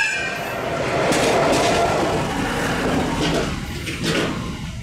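Train running past on the rails, its wheels clattering over the rail joints; the noise swells and then fades away near the end.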